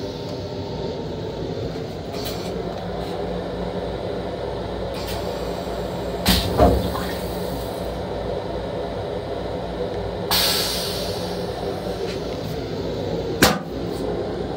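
Steady rumble of a Long Island Rail Road M7 railcar heard inside its restroom, with a couple of knocks about six seconds in and a short hiss near ten seconds. Near the end a single sharp clack as the plastic toilet lid is shut.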